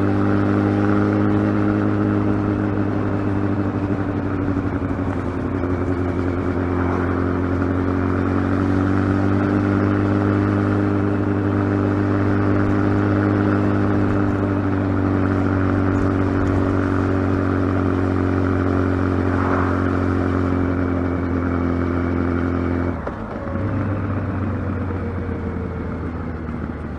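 Kawasaki ZX12R's inline-four engine running at fairly steady revs, its pitch drifting slowly up and down. Near the end the sound dips briefly, then the engine runs at lower revs.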